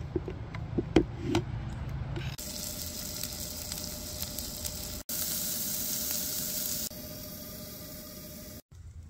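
A few sharp clicks and knocks as the electric pot's temperature dial is turned, then diced potatoes sizzling in melted butter in the electric pot, a steady hiss. Near the end the sizzle is softer, muffled under the pot's glass lid.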